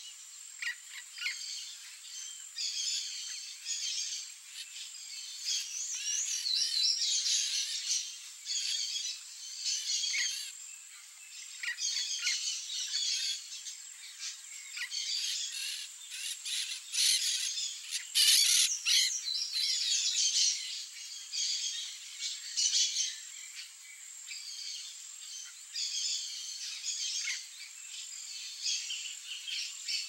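Several birds feeding in a fruit tree, chirping and calling in short, overlapping bursts throughout, loudest around eighteen seconds in.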